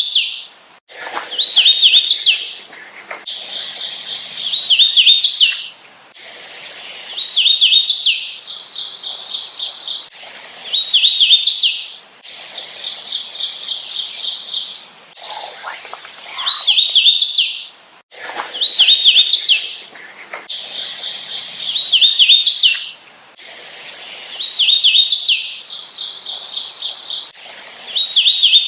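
Hooded warbler singing over and over, a new song every two to three seconds. Each song is a quick run of clear, slurred whistled notes that ends on a higher, accented note.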